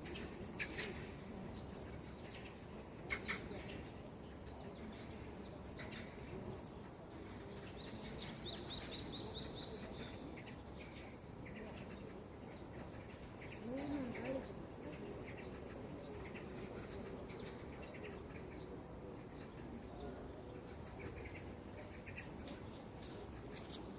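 Wild birds chirping outdoors: scattered short chirps, with a quick trill of repeated high notes about eight seconds in. There is a brief low sound about fourteen seconds in, over a faint steady background hiss.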